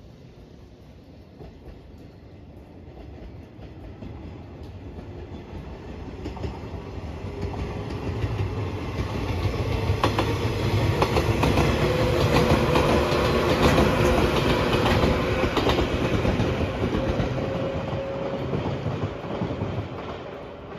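Train approaching and passing close by, its wheels clacking over rail joints. It builds from faint to loudest a little past the middle, with a steady tone and a run of rapid clacks as the cars go by, then fades as it draws away.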